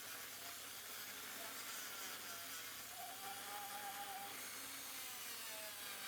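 Small handheld rotary power tool working on brass, polishing or abrading the metal, with a steady hiss and a motor whine that wavers in pitch as the load changes.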